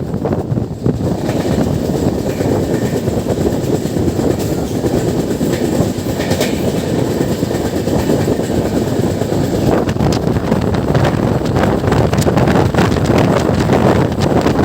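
Passenger train running at speed: a steady loud rumble of wheels on rails with wind buffeting, and a run of sharp rail clicks in the latter part.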